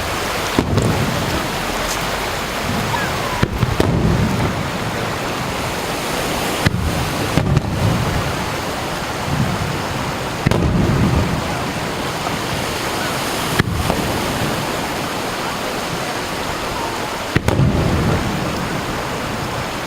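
Fireworks bursting over the sea: a series of low booms a few seconds apart, each rumbling off, over a steady rush of surf.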